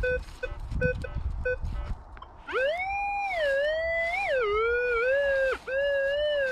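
Minelab Vanquish 440 metal detector sounding: about five short, evenly spaced beeps, then from about two and a half seconds in a long electronic tone that rises and falls in pitch, breaking briefly once.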